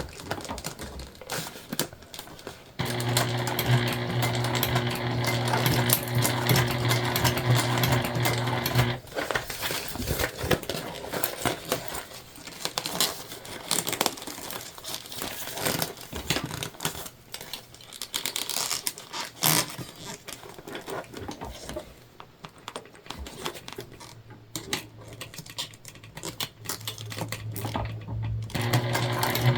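Sewing machine stitching jelly vinyl, its motor running in a steady hum for about six seconds before stopping. There follows a long stretch of clicks and rustling as the vinyl and clips are handled, then the machine runs again near the end.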